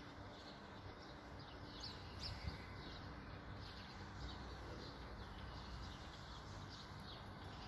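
Faint birds chirping: short, high chirps come irregularly over a quiet outdoor background hum.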